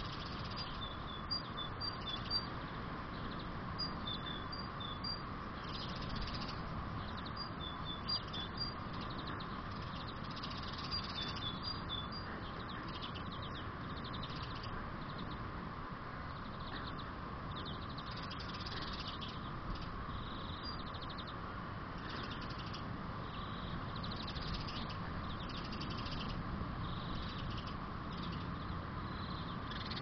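Small garden birds chirping: short high notes in quick clusters of two to four, repeated every few seconds.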